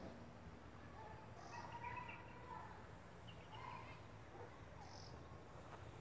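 Quiet open-air ambience with a few faint, short bird calls scattered through it.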